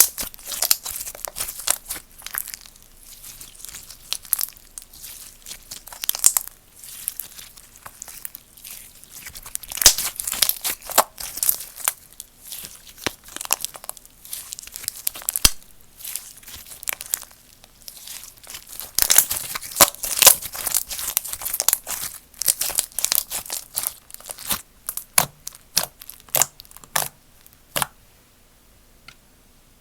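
Slime being stretched, squished and pulled apart by hand close to the microphone, giving dense runs of crackly pops, crinkles and sticky tearing sounds. The handling stops about two seconds before the end.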